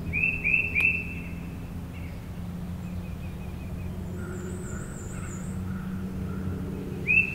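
Songbirds singing. A clear three-note phrase sounds at the start and again near the end, and a high, thin, wavering trill comes in the middle, all over a steady low hum.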